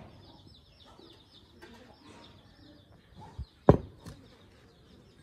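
Birds chirping steadily in the background. A sharp knock comes about three and a half seconds in, with a couple of softer knocks around it.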